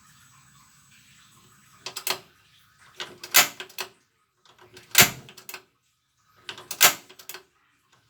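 Single-burner gas stove being worked at its ignition knob: four sharp clusters of metallic clicks, about one and a half to two seconds apart, each with a brief ring. A faint low hiss comes before the first click.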